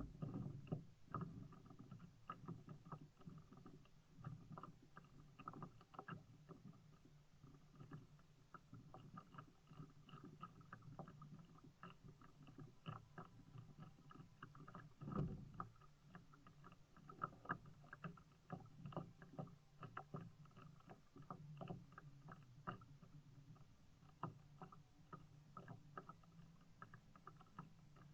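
Faint sounds of a kayak being paddled: water splashing and dripping off the paddle, with many small irregular knocks and clicks. There is a louder knock about halfway through.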